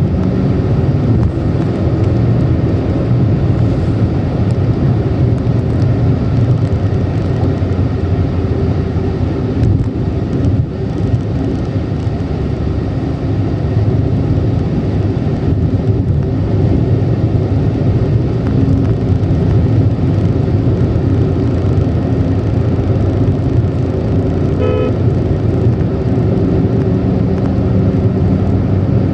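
A car driving at speed: steady engine and road noise, with a brief high tone near the end.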